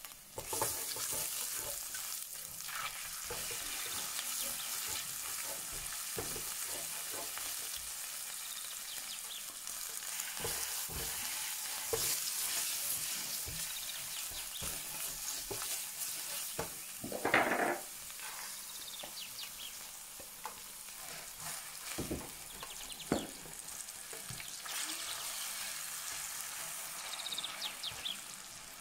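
Food sizzling as it fries in oil in a pan, with a utensil stirring and knocking against the pan now and then, and one louder scrape about two-thirds of the way through. The sizzle grows fainter near the end.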